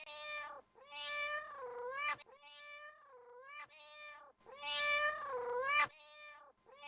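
Domestic cat meowing over and over: about six drawn-out meows, the longest and loudest starting about four and a half seconds in.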